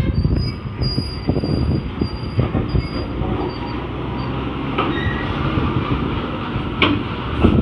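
Heavy container truck running with a dense low rumble and many rattling knocks, and a thin high squeal that comes and goes through the first few seconds.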